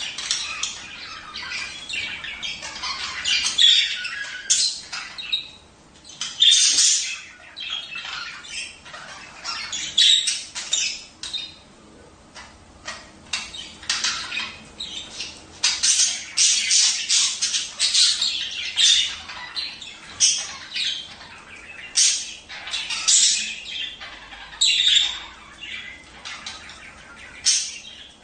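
A flock of budgerigars chattering, a dense, overlapping mix of fast chirps, warbles and sharp squawks.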